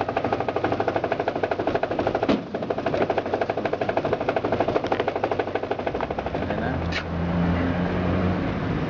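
Washing machine tub knocking in a fast, even rattle as it shakes, typical of a washer whose rusted suspension rods no longer damp the drum's vibration. About six seconds in, the knocking fades and a low steady hum takes over, with a few sharp clicks.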